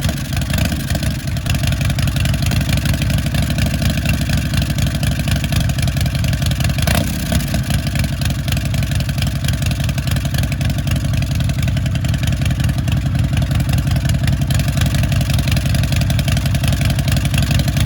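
S&S Shovelhead V-twin motorcycle engine running steadily at idle on a cold start, its firing pulses even and unbroken.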